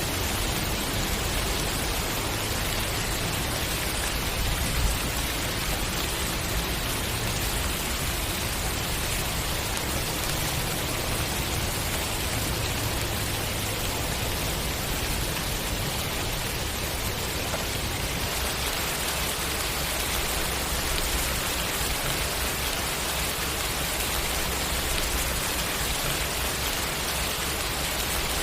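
Steady rainfall, an even hiss of rain on surfaces with a low rumble underneath.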